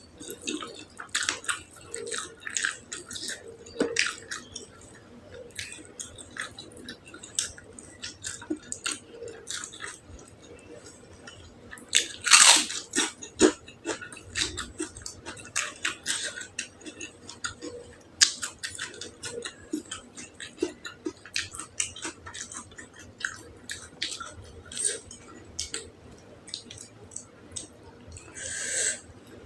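Close-miked mukbang eating sounds: steady chewing of spicy beef tongue with many wet mouth clicks and lip smacks, one louder crunch or slurp about twelve seconds in, and a short hiss near the end.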